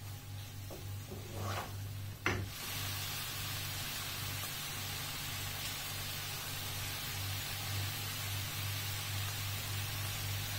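Shredded cabbage, carrot and pasta sizzling in a frying pan. In the first two seconds a spatula scrapes through the food a few times and knocks sharply on the pan, then the sizzle runs on as a steady hiss.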